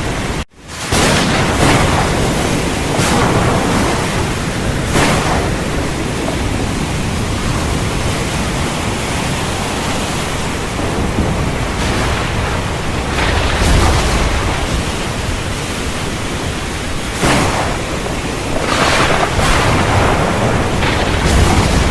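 Heavy rain pouring steadily, with several brief louder surges and low thunder rumbling about two-thirds of the way through and again near the end. The sound cuts out for an instant about half a second in.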